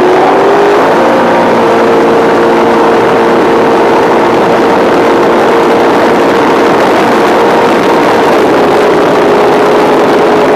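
Top Eliminator drag boat engine at full throttle on a pass: a loud, steady engine note that climbs during the first second, holds, then drops slightly about eight seconds in, over a heavy rushing roar.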